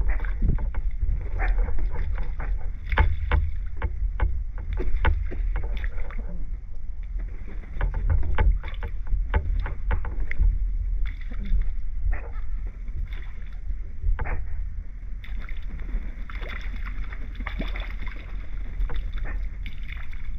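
Water lapping and slapping against a dock: many short, irregular slaps over a steady low rumble.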